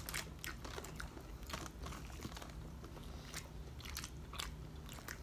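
Close-up mouth sounds of chewing and biting into crispy breaded fried pork chop, with sharp, irregular crunches two or three times a second.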